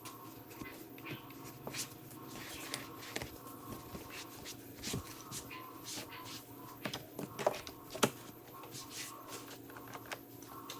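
Quiet hand cleaning work on a car: scattered light scrapes, rustles and small clicks of detailing tools and cloths, with a couple of sharper clicks about two-thirds of the way in, over a faint steady hum.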